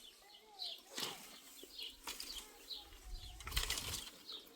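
Small birds chirping repeatedly, short high notes about two to three a second, with lower curving calls among them. About three and a half seconds in comes a brief rushing noise with a low rumble.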